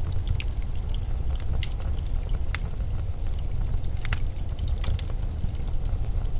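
Steady low wind rumble with a wood fire crackling over it: scattered, irregular sharp pops and snaps.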